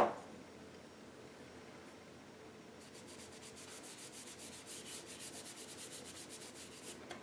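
A paintbrush scrubbing acrylic paint onto canvas in a run of quick, repeated short strokes from about three seconds in, faint and scratchy. It opens with a brief sharp knock.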